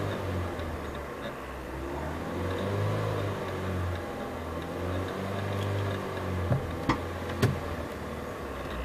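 Car engine revved gently by the accelerator pedal, rising and falling in slow swells about every three seconds over a steady low hum. Three sharp clicks come about two-thirds of the way through.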